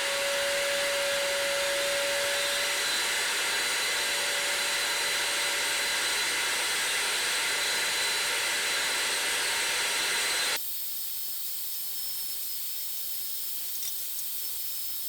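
Vacuum cleaner running, sucking ash and soot out of a pellet stove's combustion chamber. About ten seconds in, the sound suddenly becomes quieter and thinner.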